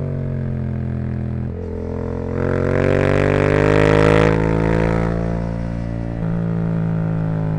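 Yamaha YZF-R7's parallel-twin engine, stage-2 tuned, running through a Yoshimura R77 exhaust under way. The note eases off and breaks briefly about a second and a half in. It then climbs and grows louder for a couple of seconds before settling, with another short break near the end.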